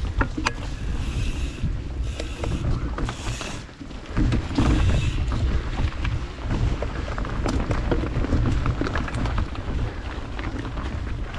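Mountain bike running fast down a dirt trail: wind buffeting the microphone, with tyres on dirt and the chain and frame rattling and clicking over bumps. Several short hissing bursts come in the first five seconds.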